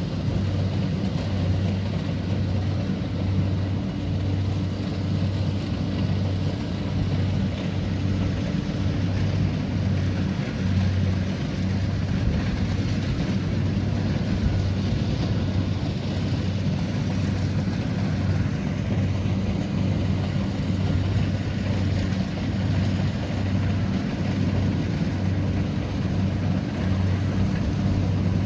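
Kubota DC70pro combine harvester's diesel engine running at steady working speed, a continuous low drone.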